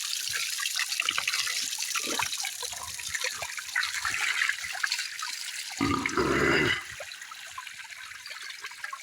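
River water flowing and trickling steadily, a continuous hiss of moving water. About six seconds in, a brief loud low rumble sounds on the microphone.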